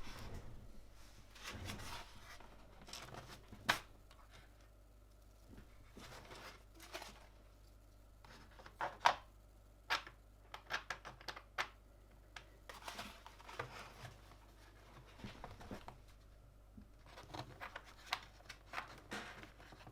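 Hands assembling a mechanical keyboard: scattered small plastic clicks and soft rustling, with quick runs of clicks about nine to twelve seconds in and again near the end.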